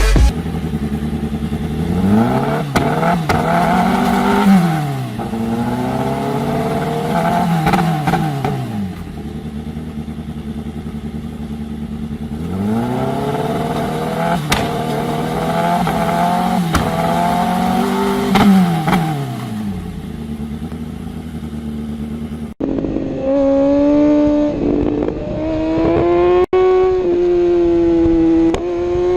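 Superbike engine revved up and let fall back in long swells, twice over. After an abrupt cut near the end, it holds high revs with the pitch slowly climbing.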